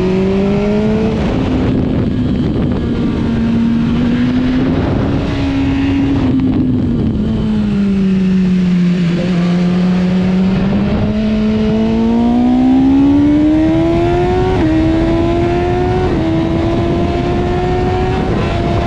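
Motorcycle engine heard from the bike as it is ridden, over a steady rush of wind noise. The engine pitch sags and falls slowly through the middle as the bike slows, then climbs again. Near the end it drops sharply three times as the rider shifts up through the gears.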